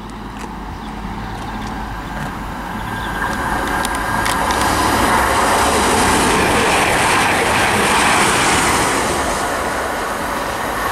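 Class 222 Meridian diesel multiple unit passing through a station at speed: a rushing train noise that builds over the first few seconds, is loudest in the middle, and eases a little near the end.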